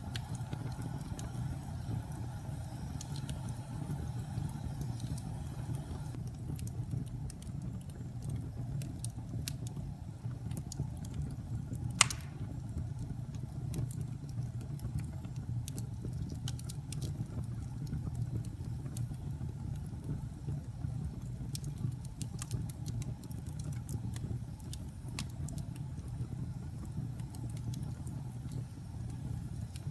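Wood fire burning in a fireplace: a steady low rumble of the flames with scattered crackles and snaps, and one loud pop about twelve seconds in. A higher hiss drops away about six seconds in.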